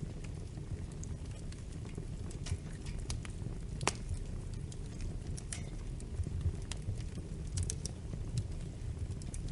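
Wood fire in a fireplace crackling: a steady low rumble of flames with irregular sharp pops and snaps, the loudest about four seconds in.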